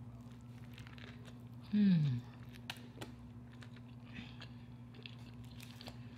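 Close-miked chewing and wet mouth clicks from a woman eating a soft chicken taco, with one short falling "mmm" about two seconds in. A steady low hum runs underneath.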